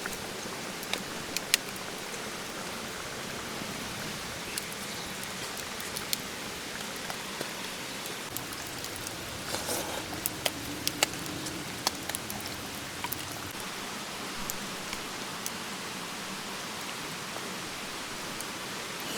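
Steady rain falling, with single drops striking sharply now and then.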